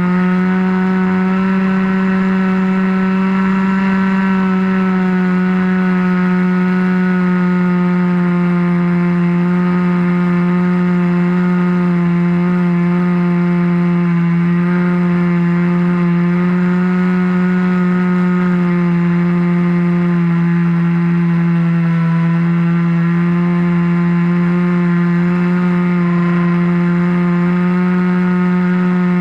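RC model airplane's engine and propeller running steadily, heard close up from a camera on the wing, the pitch dipping and rising slightly now and then.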